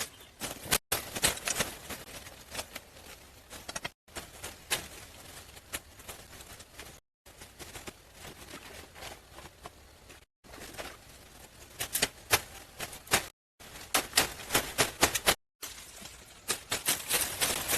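Irregular sharp clicks and knocks, in rapid clusters, broken by abrupt cuts into short segments.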